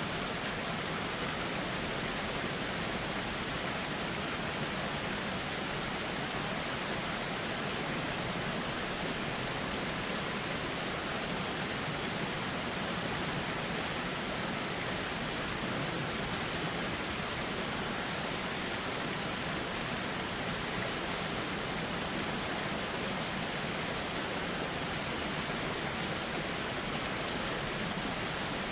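Steady, even rush of flowing river water, unchanging throughout.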